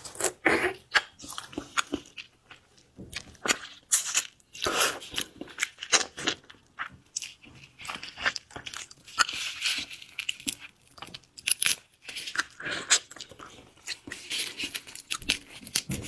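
Crunching and chewing of shell-on seafood: irregular, sharp, crackly bites and chews with short pauses.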